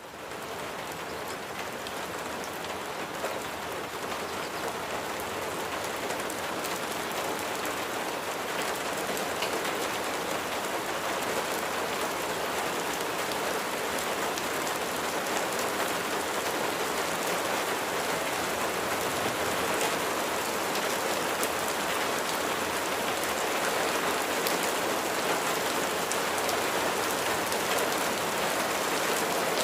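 Steady rain, a dense patter of raindrops on a surface, fading up at the start and growing a little louder over the first several seconds before holding steady.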